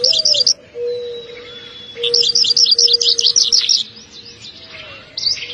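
A songbird chirping in quick runs of high notes: a short burst at the start, a longer rapid run about two seconds in, and another short burst near the end, over a faint low held note.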